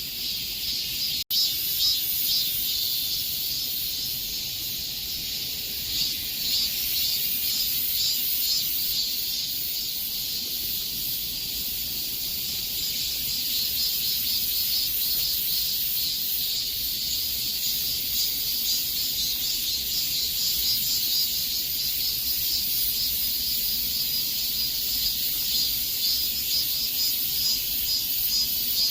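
Cicadas chorusing: a steady, dense, high-pitched pulsing buzz, broken by a momentary gap about a second in.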